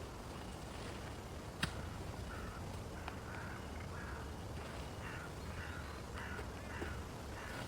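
Steady rain hiss. A single sharp click comes about a second and a half in, and from about two seconds in a run of short, harsh calls repeats about twice a second, likely a bird's.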